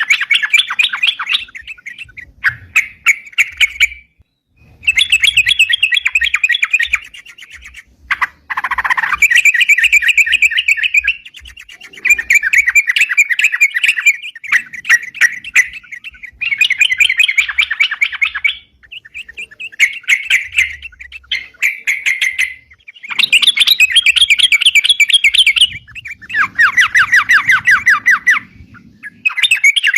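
Yellow-vented bulbul singing vigorously: repeated phrases of rapid, chattering chirps, each lasting one to three seconds with short pauses between.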